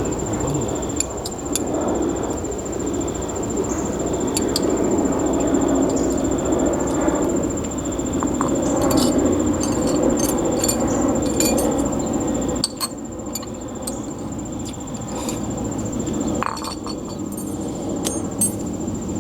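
Wood campfire burning with a steady crackle and scattered sharp pops, over a steady high-pitched insect drone.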